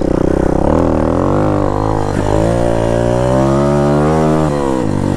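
Four-stroke AJP dirt bike engine pulling under throttle, its pitch climbing steadily for about three seconds, then dropping away near the end as the revs fall.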